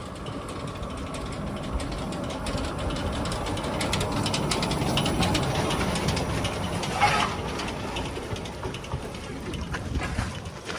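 Narrow-gauge steam locomotive running slowly along the track, its wheels clicking over the rails, growing louder towards the middle and then fading. A short sharper sound about seven seconds in.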